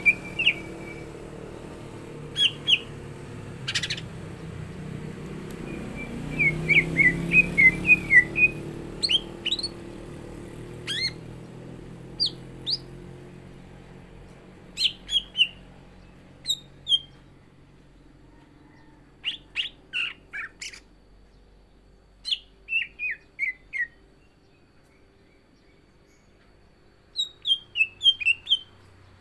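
Caged cucak ijo (greater green leafbird) singing: short bursts of sharp chirps and quick whistled phrases separated by pauses, with a fast run of notes about a quarter of the way in and another near the end.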